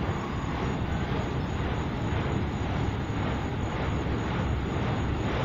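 Freight train of enclosed autorack cars rolling past, a steady rumble of steel wheels on the rails.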